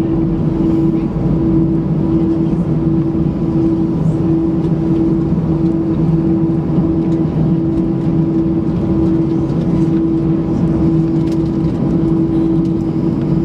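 Airbus A320 cabin noise: the jet engines running with a steady, unbroken drone and a low hum, heard from inside the cabin.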